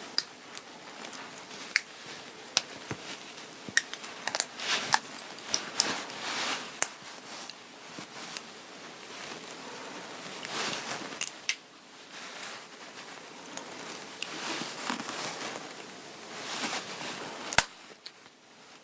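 Clothing fabric rustling and being handled, with scattered small clicks and taps; a sharp click near the end is the loudest.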